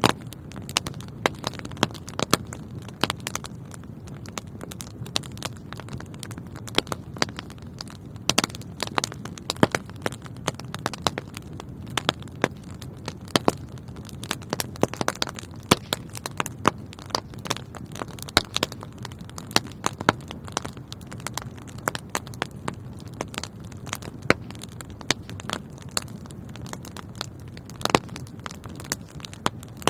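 Wood fire burning in a fireplace: a steady low rumble of flames with many irregular sharp crackles and pops throughout.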